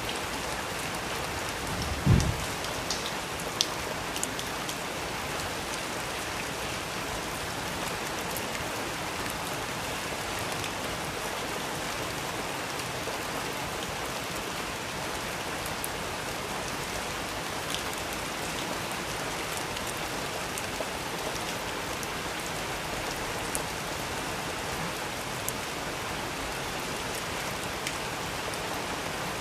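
Steady rain falling, an even hiss with scattered drip-like ticks. A single low thump about two seconds in.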